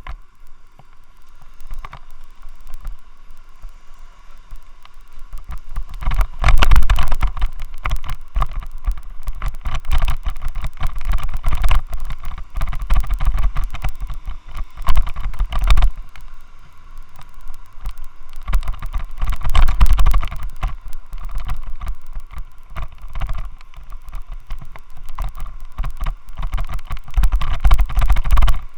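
Rattling and vibration noise from a loose helmet mount, picked up by the Xiaomi Yi action camera it holds: a rapid clatter over a heavy low rumble that swells in surges. The noise is the sign of the mount shaking the camera.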